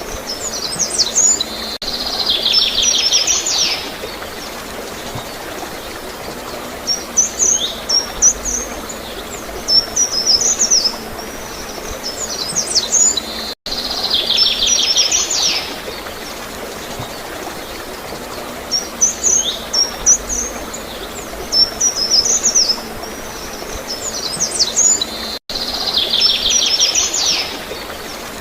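Songbirds chirping and trilling over a steady background of flowing, gurgling water. The same sequence of calls repeats about every 12 seconds, with a brief gap in the sound each time it starts over.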